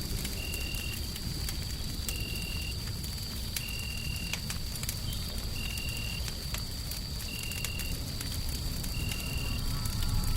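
Wood fire crackling in a hearth, with scattered sharp pops over a steady low rumble and hiss. A thin high whine holds throughout, and a short high tone repeats about every second and a half.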